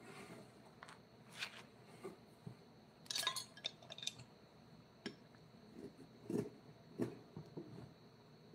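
Irregular light knocks and clinks of small hard objects being handled, with a brief cluster of sharper clinks about three seconds in.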